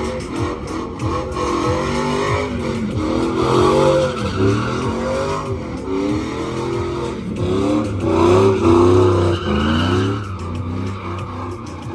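Truck doing a burnout: the engine revs up and falls back again and again, loudest about four and nine seconds in, over the steady squeal of spinning tyres.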